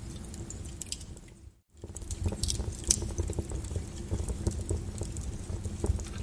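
Log fire crackling and popping over a steady hiss of rain and a low rumble. The sound briefly fades out to silence about a second and a half in, then swells back.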